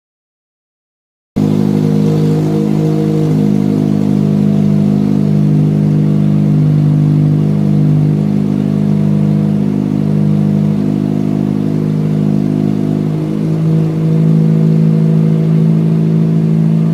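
A 2009 Mitsubishi Lancer's engine running steadily at a loud, even pitch. It cuts in abruptly about a second in.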